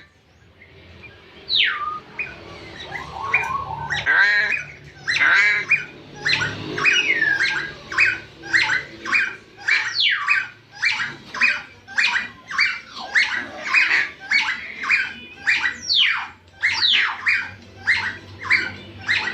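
Crow calling: a few harsh caws early, then from about five seconds in a rapid run of short, high calls, many sliding downward in pitch, about two a second.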